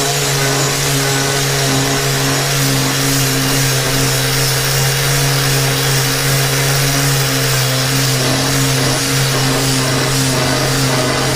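Corded angle grinder fitted with a wire brush, running steadily at full speed as it scours heavy rust off a quarter-inch steel plate.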